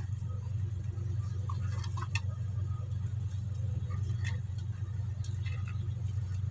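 A steady low background hum, with a few faint scattered ticks and rustles from hands working braided PE fishing line into a knotted cord.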